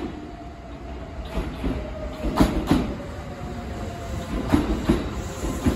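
Kintetsu 5211-series and 9000-series electric express train pulling into the station past the platform, its wheels clacking over rail joints in double clacks as each bogie passes, over a steady hum.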